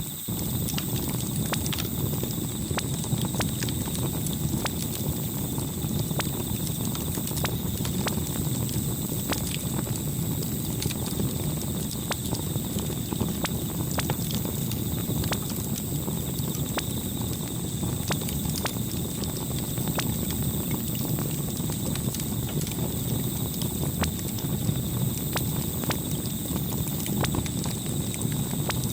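Campfire burning, a steady low rumble of flames with frequent irregular sharp crackles and pops of the burning wood.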